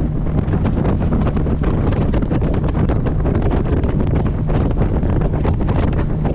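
Wind buffeting the microphone over the steady, low drone of a motorboat's engine.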